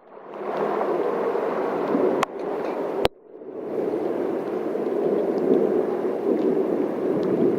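Steady rush of heavy rain and water running in a flooded street. Sharp clicks about two and three seconds in, the second followed by a brief dip as the sound fades back up.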